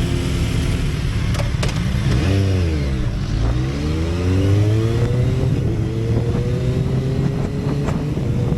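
Motorcycle engine running under way with wind rush; its note dips about two seconds in, then climbs slowly as it pulls through the rest.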